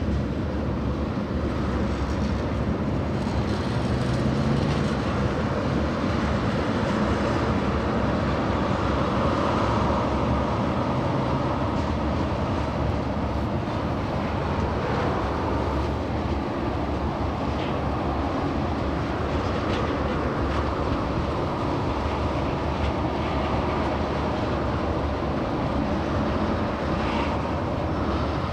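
Diesel-hauled freight train rolling by, a steady rumble of engines and wheels on the rails.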